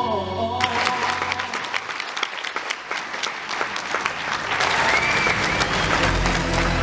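Audience clapping, starting abruptly about half a second in as a sung phrase of music cuts off. Music with steady low notes comes back in near the end, over the clapping.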